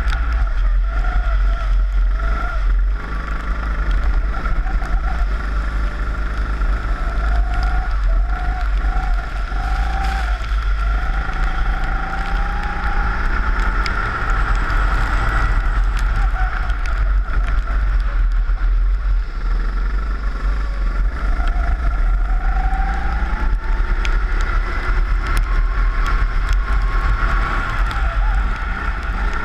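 Four-stroke rental kart engine heard onboard, its pitch rising and falling again and again as the kart accelerates out of corners and lifts off into them, over a heavy low rumble on the wet track.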